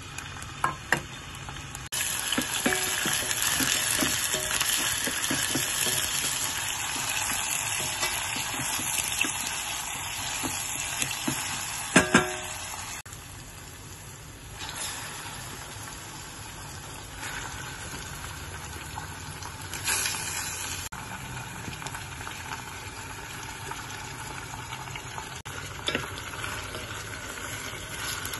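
Sliced shallots and garlic sizzling in hot oil in a stainless steel saucepan. The frying gets louder about two seconds in, a couple of sharp clinks come near the middle, and then the sizzle carries on more softly.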